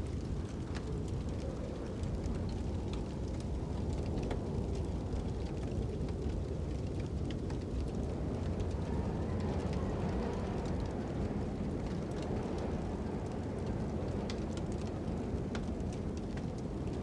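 Fire crackling over a steady wind: a constant low rush of wind, with sharp pops and crackles scattered irregularly through it.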